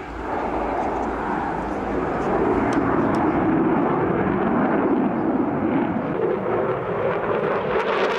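Engine noise of an aircraft flying a display pass: a dense, steady rush that grows louder over the first few seconds and then holds.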